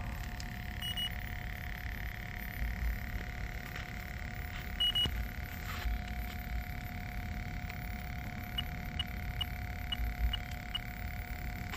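Fieldpiece DR82 electronic refrigerant leak detector sounding short high beeps over its steady tone: a few scattered ones, then a quick run of about seven near the end. A low rumble lies under it.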